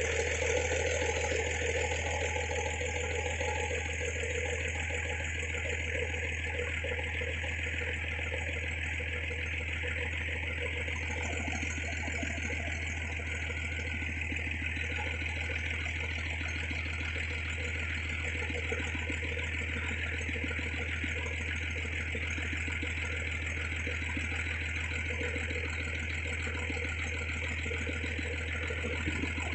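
Engine running steadily at a constant speed, without revving.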